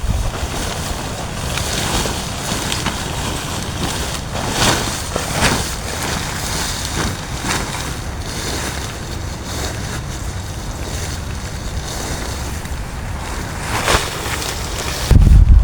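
Steady heavy rain and wind noise, swelling briefly in a few louder gusts. Just before the end a loud low rumble of wind buffeting the microphone starts.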